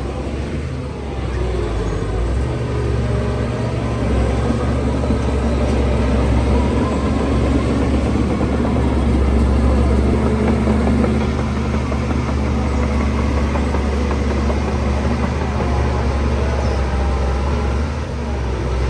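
Heavy earthmoving machine's diesel engine running steadily, swelling louder in the middle and easing off near the end.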